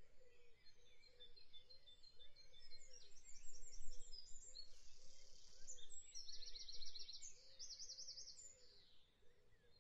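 Birds chirping, with rapid high-pitched trills in the middle few seconds, over a faint low call that repeats steadily.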